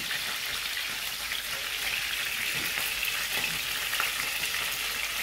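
Chebureki frying in hot oil in a frying pan: a steady sizzle with scattered spitting pops. The pastries were fried only partly thawed from frozen.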